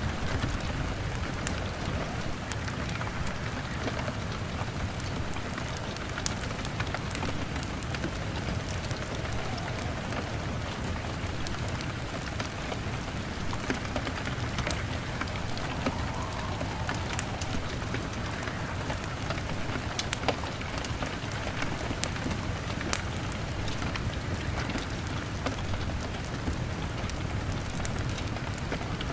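Rain falling on a window mixed with a crackling fire: a steady hiss of rain with frequent short, sharp pops and clicks.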